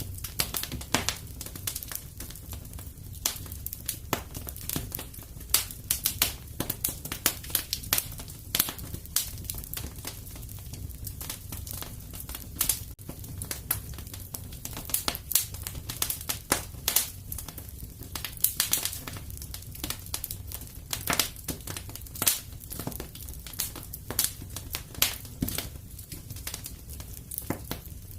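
Wood fire crackling in a fireplace: a dense, irregular stream of small crackles and sharper pops over a low steady rumble.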